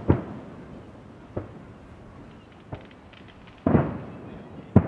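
Aerial firework shells bursting: about five irregular booms, each followed by an echo, the biggest about three and a half seconds in with a long crackling tail.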